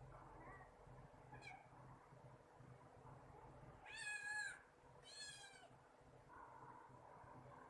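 Cat meowing: two short, high-pitched meows about a second apart just past midway, with a faint brief one earlier.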